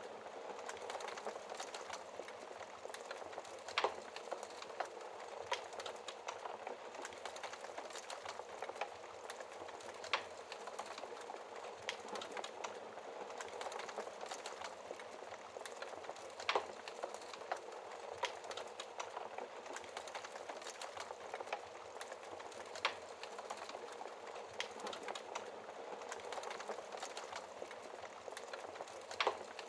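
Wood fire burning in a fireplace: a steady dense crackle, with a louder sharp pop about every six seconds.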